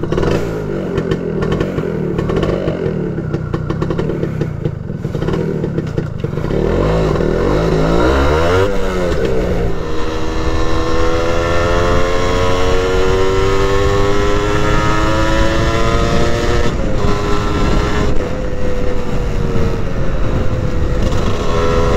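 Modenas Dinamik 120's 118cc two-stroke engine under way on the road. It runs low and even at first, revs up sharply about seven to nine seconds in, then climbs steadily in pitch as speed builds and holds fairly steady near the end.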